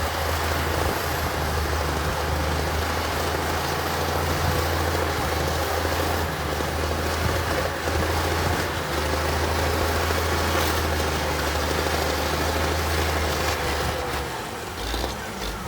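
Heavy earthmoving machine's diesel engine running steadily: a constant low hum under a wash of mechanical noise, easing slightly near the end.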